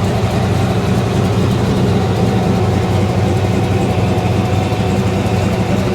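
1991 GMC Syclone's Whipple-supercharged 427 LSX V8 idling steadily.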